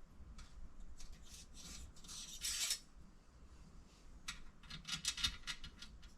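Small metal parts being handled and scraped: two bouts of quick clinks and rasping, the first about a second in, the second about four seconds in.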